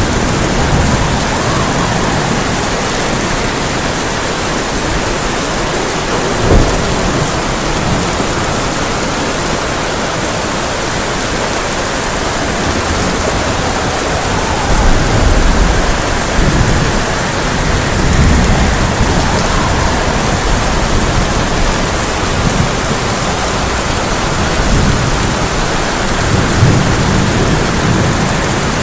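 Heavy rain drumming on a tin roof in a steady dense hiss, with thunder rumbling low through it: a sharp crack about six seconds in and longer rolls around the middle and near the end.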